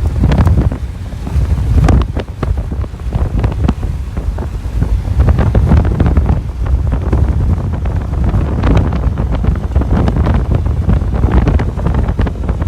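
Strong wind buffeting the microphone: a loud, uneven low rumble that swells and drops in gusts, with scattered sharp crackles.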